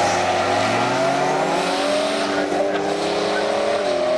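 Race car engine under hard acceleration, its pitch climbing in several repeated sweeps.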